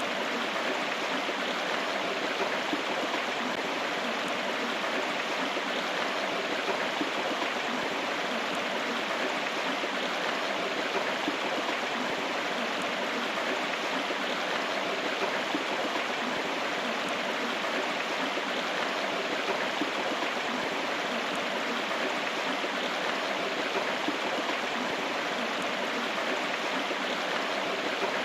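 Steady rushing of a flowing river or stream, an even, unbroken water sound.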